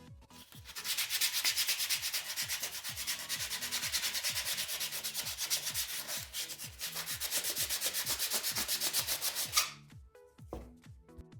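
Fast back-and-forth abrasive rubbing, several strokes a second, starting about a second in and stopping abruptly near the end, over background electronic music.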